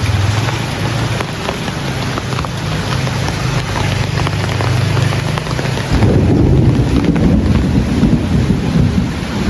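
Heavy rain with a steady hiss and a low rumble of thunder underneath; the rumble swells louder about six seconds in.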